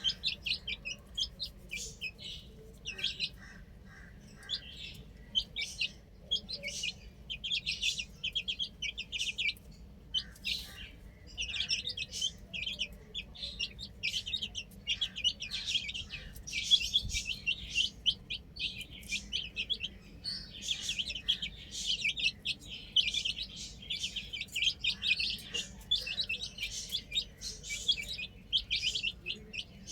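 Baby chicks peeping: many short, high-pitched chirps in rapid clusters, several birds at once, with a few brief lulls.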